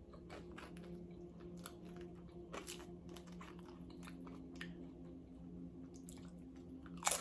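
Close-up chewing of loaded nachos: soft wet mouth sounds and many small clicks, with a loud crunch of a chip near the end. A faint steady low hum runs underneath.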